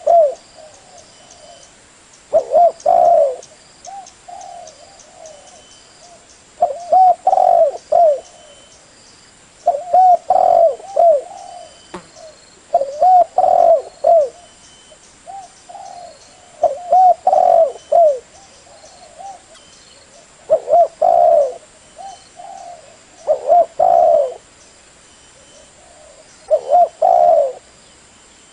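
Spotted dove cooing: a loud phrase of several coos repeated about every three and a half seconds, with fainter coos in between.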